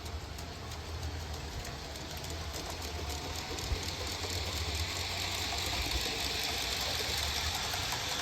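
Playmobil 4050 G-scale diesel locomotive running and pulling a long train of metal-wheeled cars over LGB track, with a steady low rumble and many rapid clicks from the wheels on the rails. The train grows louder with a rising hiss from about four seconds in.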